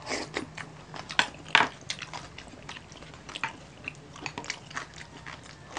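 Close-up chewing and biting of crispy roast pork belly (lechon belly): a run of sharp, irregular crunches and mouth clicks, the loudest about a second and a half in.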